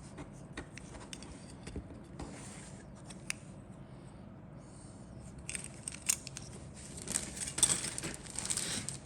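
Plastic model kit parts and packaging being handled: scattered light clicks, then a louder stretch of rustling and crinkling in the last three seconds or so.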